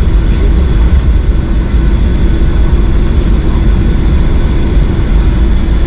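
Boeing 737-800 aircraft noise: a loud, steady low rumble with a hiss and a faint steady whine on top.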